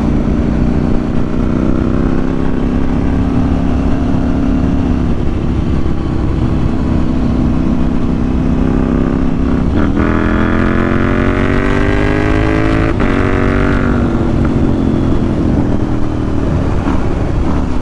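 KTM 790 Duke's parallel-twin engine running on a ride. About ten seconds in it revs up hard, with a brief break in pitch as it changes gear, then eases off. A steady wind rumble on the microphone sits under it.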